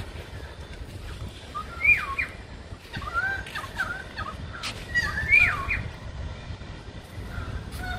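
Bird calls: three short bursts of whistled phrases that slide up and down in pitch, about two, three and five seconds in, over a low rumble of wind on the microphone.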